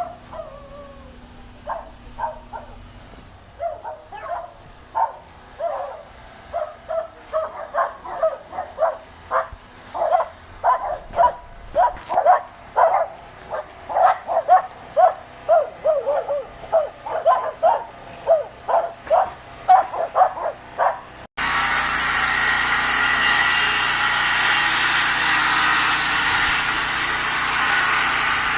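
A dog barking over and over, the barks coming faster and louder until about two a second. About three-quarters of the way through it cuts off abruptly and a loud, steady rushing hiss takes over.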